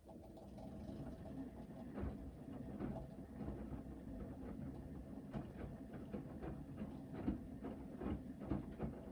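Hoover VHD 9163 ZI washing machine drum starting to turn in the main wash, tumbling the load with a steady low rumble and irregular knocks and clicks.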